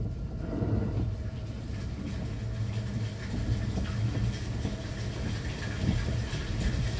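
JR West Thunderbird electric limited express train running: a steady low rumble with faint irregular rattles and clicks.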